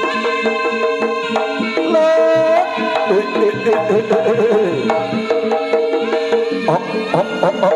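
Live Javanese jaranan ensemble music: hand drums keep a steady beat under held metallic tones and a melody whose pitch slides and wavers.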